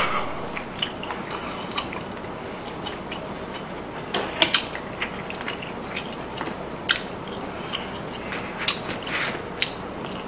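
A person chewing pork belly, with scattered wet mouth smacks and clicks throughout and a sharp click at the very start.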